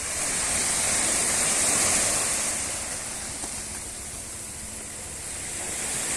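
Surf washing onto a beach: a steady rushing that swells, eases in the middle and swells again near the end.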